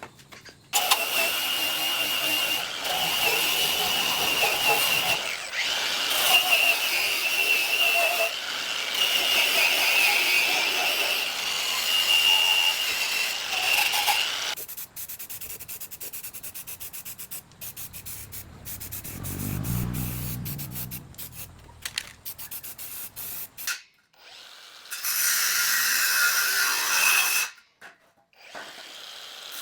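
A handheld power tool running with a steady high whine for about fourteen seconds, then a stretch of scattered clicks and knocks, then the tool running again briefly near the end.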